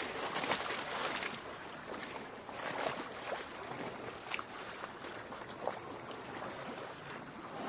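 Lake water lapping against a rocky shore: a steady wash of water with frequent small, irregular splashes and gurgles.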